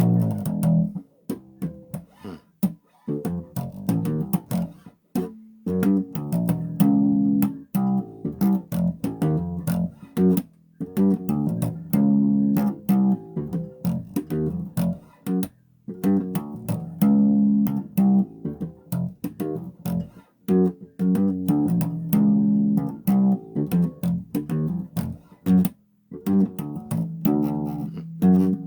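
Bass guitar played solo: plucked notes in short phrases, each with a sharp string attack, and brief pauses between the phrases.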